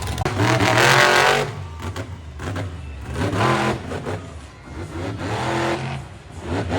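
Monster truck engine revving in repeated throttle bursts, about four in all, each rising in pitch and falling away; the loudest is about a second in.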